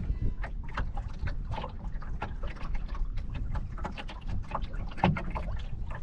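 Water slapping and splashing against the hull of a small Optimist sailing dinghy, in many short irregular splashes, over a steady low rumble of wind on the microphone. A louder knock comes about five seconds in.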